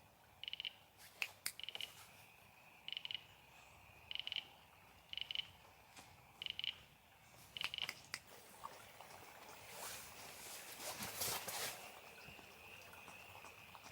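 A frog calling over and over: short pulsed chirps about once a second, later drawn out into a steadier trill. A few sharp clicks are scattered through it, and a rush of noise swells and fades from about ten to twelve seconds in.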